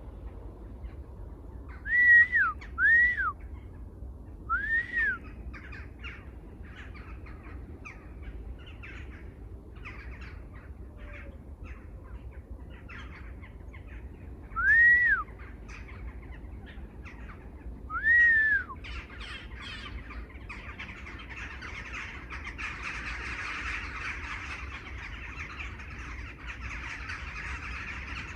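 Wild birds calling: five loud, clear whistled notes, each rising and falling in pitch, stand out over a steady scatter of short chirps. About two-thirds of the way in, a dense steady hiss of calling fills in behind them.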